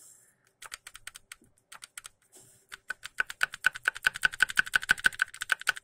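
Rapid metallic clicking, sparse and irregular at first, then from about three seconds in a fast, even run of about eight or nine clicks a second, each with a short ringing note.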